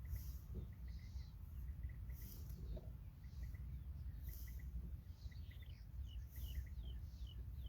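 Bird calls outdoors: short chirps, then a quick series of short downward-sliding notes in the second half, over insects sounding in repeated high bursts and a steady low rumble.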